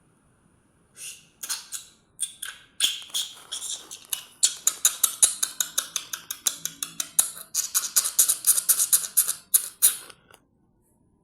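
Small birds chirping at close range: a fast run of short, sharp chirps, several a second, that starts about a second in and stops abruptly near the end.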